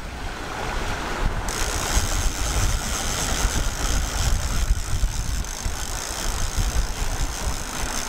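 Wind buffeting the microphone over a steady rush of sea and boat noise aboard a sailing yacht under way, with a brighter hiss coming in about a second and a half in.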